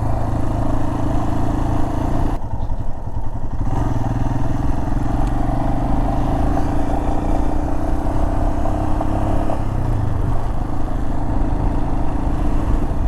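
Royal Enfield Himalayan's single-cylinder engine running steadily under way, with road and wind noise. About two and a half seconds in the sound briefly thins out for about a second, then picks up again.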